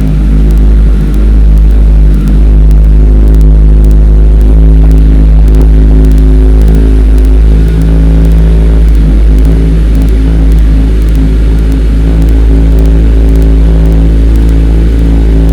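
Kawasaki ZX-14R's inline-four engine idling steadily through a Brock's Alien Head slip-on exhaust, soon after a cold start. It is loud and heavily distorted by the camera's built-in microphone.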